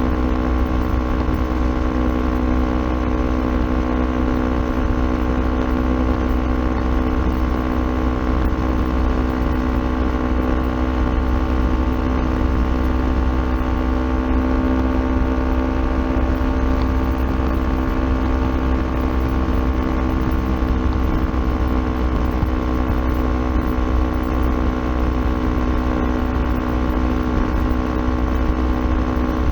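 Kawasaki Ninja 400's parallel-twin engine running through an Akrapovic aftermarket exhaust at a steady cruise. Its pitch holds nearly level, rising slightly about halfway through.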